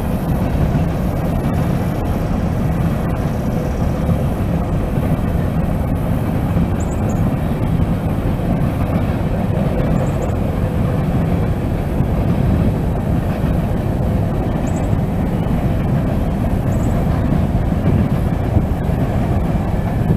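A train rolling past: a steady, loud rumble of wheels and cars on the rails, with a few brief high squeaks.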